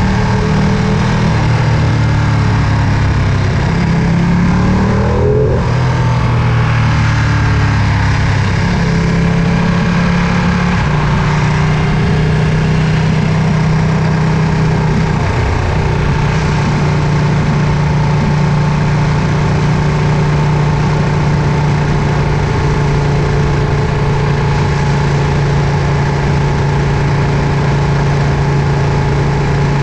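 Ducati Panigale V2's 955 cc V-twin engine heard from the rider's seat while riding. Its note shifts up and down several times in the first half, then holds a steady pitch at constant speed.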